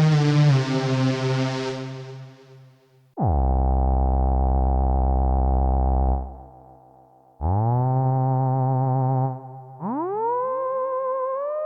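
Access Virus B rack synthesizer playing lead patches. A bright note fades out, then three separate held notes follow. One dips in pitch as it starts, the next swoops up into pitch, and the last glides slowly up and settles into vibrato.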